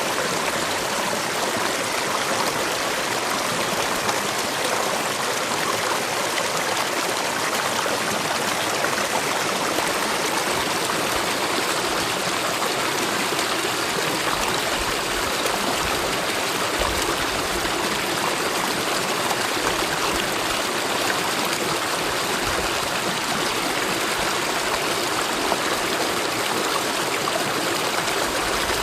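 Mountain valley stream flowing steadily, a constant even rush of water.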